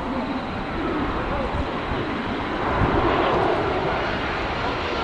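Jet engines of a Boeing 737-800 (CFM56-7B turbofans) running with a steady rushing roar that grows louder about halfway through.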